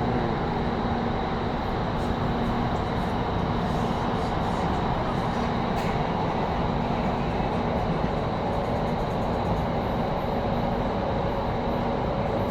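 Driverless Doha Metro train running through an underground tunnel, heard from inside the carriage: a steady rumble with a constant hum.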